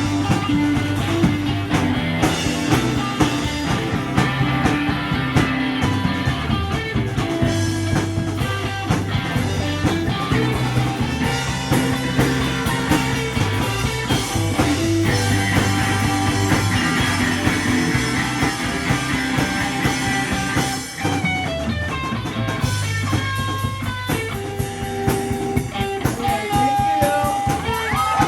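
Rock band playing live, a guitar-led psychedelic rock passage over a moving bass line and drums.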